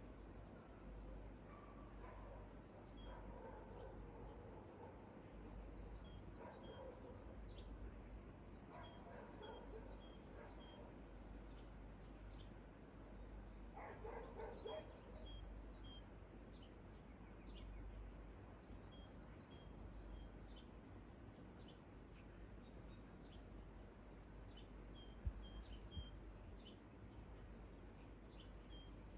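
Faint dawn chorus: a steady, high insect trill like crickets, with small birds giving short chirps in quick groups every few seconds. A few lower calls are mixed in, and near the end there are two sharp clicks.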